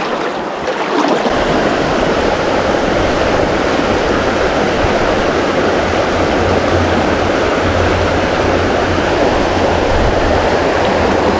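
Fast-flowing mountain stream rushing steadily over rocks, loud and close, with a low rumble joining in about a second in.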